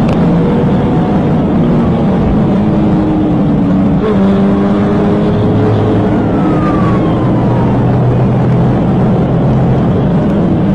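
A car engine running hard at speed over heavy road noise, its pitch shifting up and down several times.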